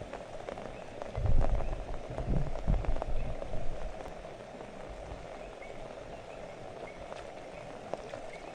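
Steady rain falling, with scattered drop clicks. A cluster of loud, low thumps and rumbles comes about one to four seconds in.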